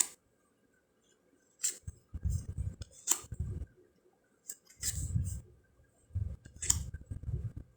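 Cardstock fortune cards being flipped and set down by hand: a series of crisp snaps, about four, each with a soft dull rustle and thud of handling.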